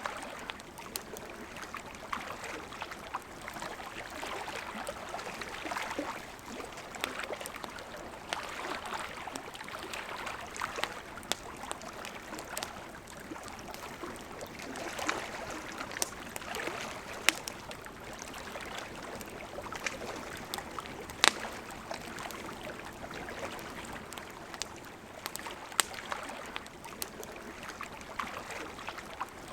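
A flowing river or stream with a campfire crackling over it: steady rushing water, broken by frequent sharp wood pops and snaps scattered throughout, a few of them much louder than the rest.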